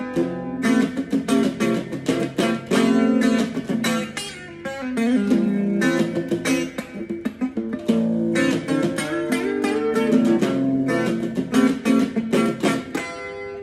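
Guitar music: an instrumental piece of quickly plucked notes and chords, with a brief softer dip about four and a half seconds in.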